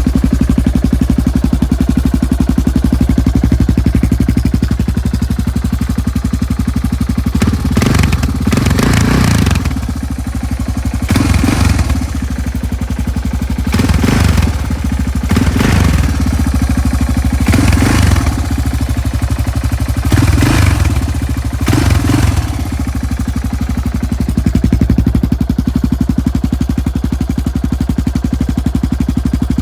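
Yamaha TT600R 2000 single-cylinder four-stroke engine idling steadily through its stock exhaust, blipped up by the throttle about seven times in the middle and then settling back to idle.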